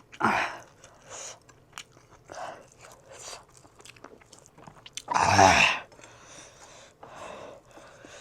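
A person chewing and biting food close to the microphone, with short wet mouth sounds about once a second and one louder, longer mouth noise about five seconds in.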